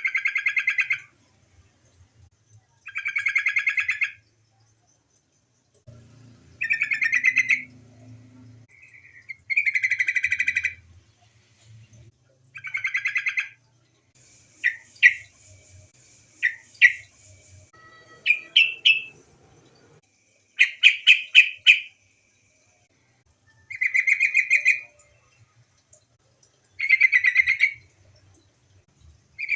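Yellow-vented bulbul (trucukan) giving short, bubbly chattering phrases about every three seconds, with a run of shorter, sharper notes in the middle.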